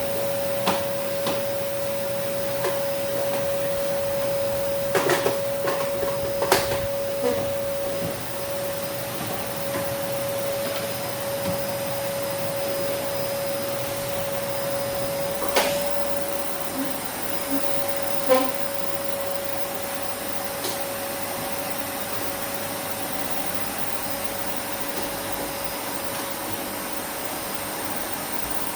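Vacuum cleaner running steadily with a constant whine, with a few sharp clicks and knocks along the way.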